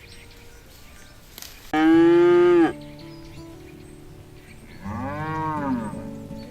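Cows mooing twice: a loud, short, level call about two seconds in, then a second call about five seconds in that rises and falls in pitch.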